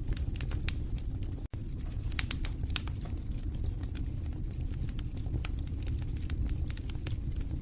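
Fire burning in a fireplace: a steady low rumble of flames with irregular sharp crackles and pops. There is a split-second break in the sound about a second and a half in.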